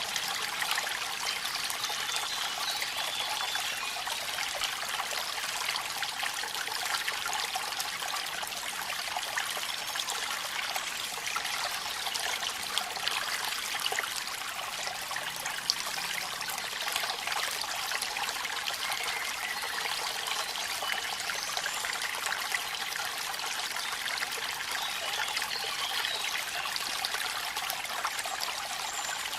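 Waterfall water running and splashing steadily: an even wash of noise dotted with many tiny splashes and drips.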